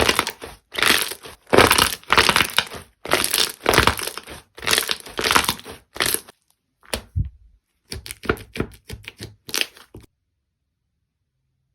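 Slime being squeezed and pressed by hand, giving a string of crunchy, crackling bursts about one every half to three-quarters of a second. After a short pause come a few quick crackles, and the sound cuts off abruptly about ten seconds in.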